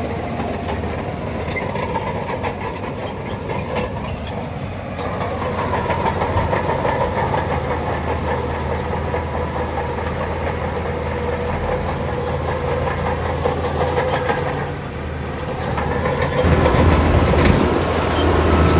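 Shantui crawler bulldozer's diesel engine running steadily with its steel tracks clanking and rattling. About three-quarters of the way through, the engine gets louder as it takes on load.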